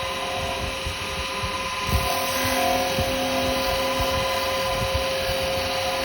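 Wood lathe running with a steady whine while a carbide chisel cuts into the spinning yew, with an irregular scraping of the cut under it.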